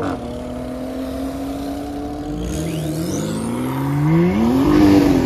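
Porsche 911 Carrera's flat-six engine driving off at low speed: a steady drone at first, then rising in pitch as it accelerates from about three seconds in, loudest near the end.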